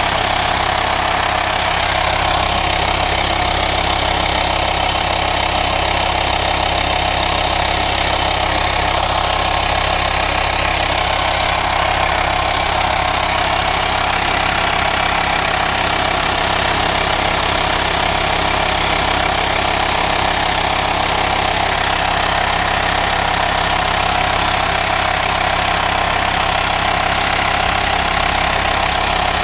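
VW Transporter T5 2.5 TDI five-cylinder diesel engine idling steadily, with a constant hiss from the engine bay that the owner first took for a vacuum leak.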